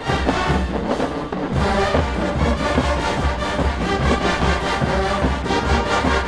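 Marching band playing: full brass over a heavy, steady low drum beat, with the low drums coming in right at the start.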